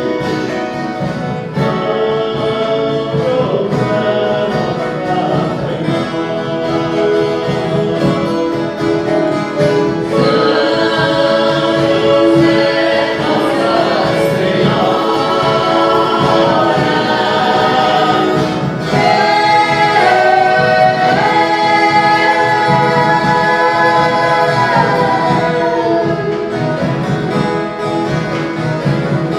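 Viola caipira ensemble playing with a group of voices singing a Christmas song, the singers holding long notes in the second half.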